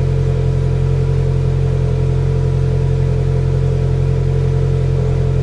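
Polaris Slingshot's engine idling steadily, an even low hum that does not change.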